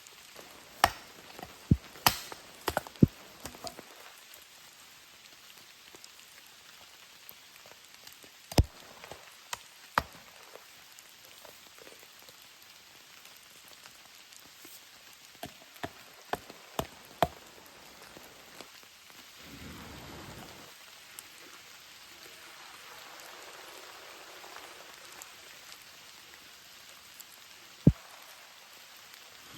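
Steady rain, with scattered sharp taps: several close together in the first three seconds, a few more after the middle and one near the end.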